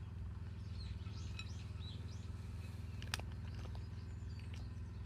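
Birds chirping in short scattered calls over a steady low hum, with one sharp click about three seconds in.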